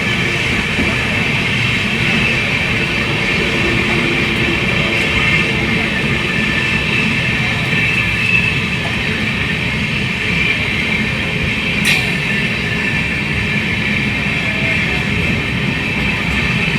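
Train running past on the rails: a steady, loud run of wheel-and-rail noise with a high ringing band over it, and one sharp click about twelve seconds in.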